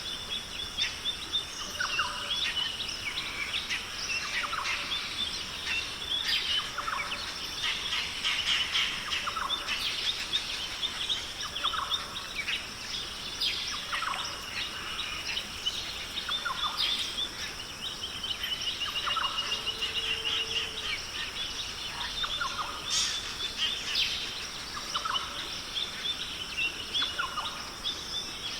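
Australian rainforest ambience: many birds calling and chirping over a steady high-pitched drone. A short low note repeats about every two seconds, and a lower arched call comes about two-thirds of the way through.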